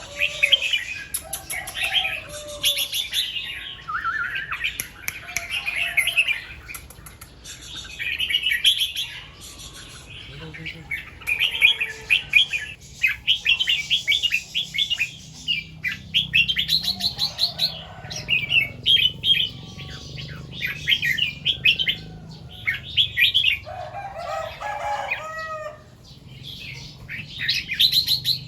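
Red-whiskered bulbuls singing: short, quick warbling phrases repeated every second or two, with fainter lower calls and thin high chirps from other birds among them.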